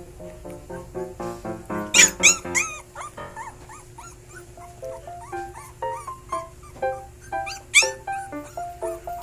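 Young puppies whimpering in short, squeaky calls, over background music.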